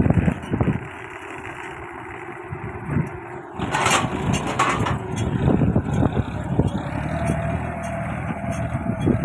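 Farm tractor engine running as it pulls a moldboard plough through dry soil, with a brief rush of noise about four seconds in.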